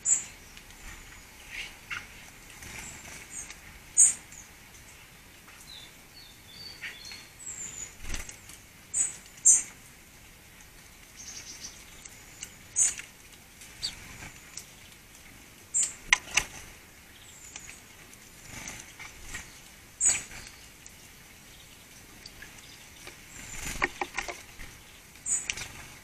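Small garden birds giving scattered short, high chirps and calls, a few every couple of seconds, with occasional sharp clicks among them.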